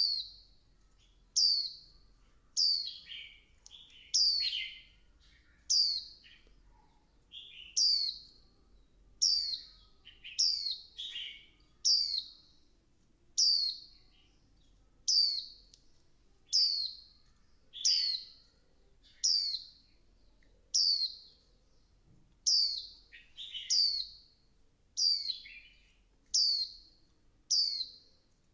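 Female white-eye giving short, high, falling call notes about every second and a half, some in quick pairs. These are female calls of the kind played to stir male white-eyes into singing.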